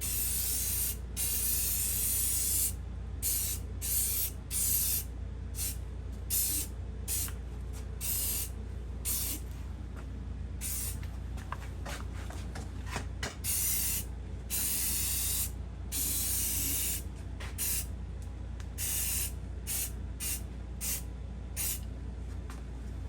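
Primer being sprayed onto a cast-iron engine block in repeated hissing passes, some short bursts and some held a second or more, with brief stops in between.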